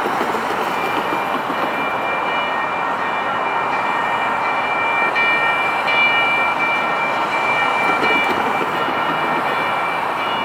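Light rail train running past with a steady rushing noise. A high-pitched ringing of several steady tones sits over it through most of the passage and is strongest midway.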